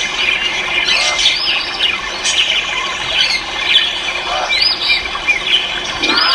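Many caged birds calling at once: a dense, continuous din of overlapping short chirps and calls from many birds together.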